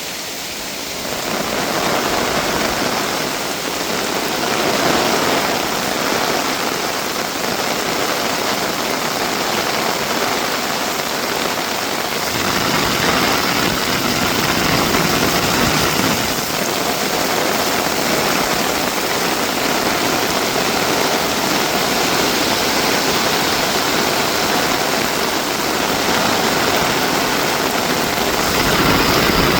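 Heavy rain pouring down, a steady dense hiss that swells a little in places.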